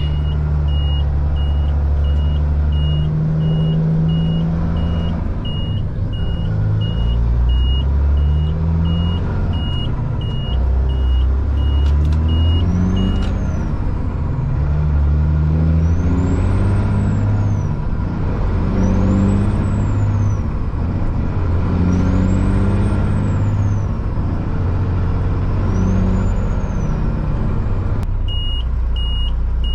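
Caterpillar C-15 diesel engine of a Kenworth truck, heard from inside the cab, pulling up through the gears. The engine note climbs with each gear and drops back at each shift. A turbo whistle rises and falls on each pull, loud because the turbo is straight piped. A steady, high, regular beep sounds for roughly the first thirteen seconds and again near the end.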